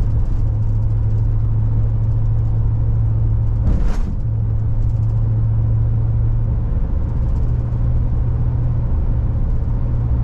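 Road and engine noise inside a moving car: a steady low hum over tyre rumble, with a brief louder whoosh about four seconds in.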